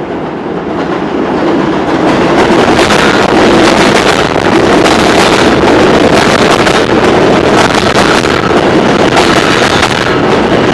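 New York City subway L train running past close by, a loud rumble and rail noise that builds over the first two seconds and then holds, with frequent clacks of wheels over the rails.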